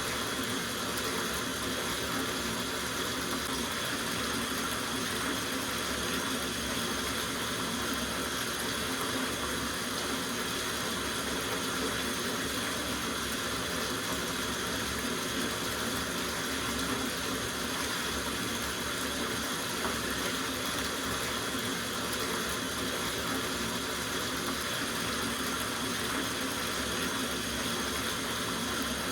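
Water running steadily from a tap into a soaking bathtub, an unbroken rushing that stays level throughout.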